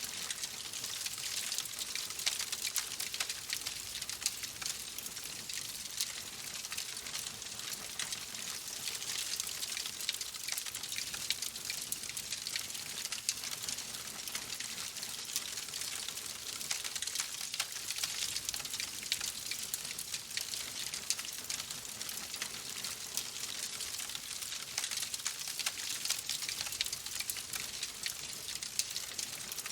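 Wood fire in a fireplace crackling steadily: a constant hiss dotted with many small pops and snaps.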